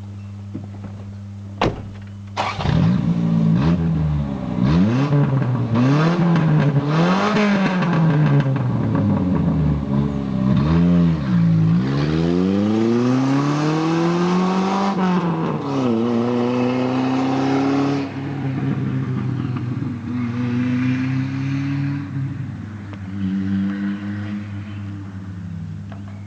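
1983 Toyota Tercel's four-cylinder engine, loud through a broken exhaust pipe, revved up and down from idle. There is a short click about two seconds in, then several quick revs, a longer climb, a held higher rev that drops off, a few smaller blips, and a return to idle.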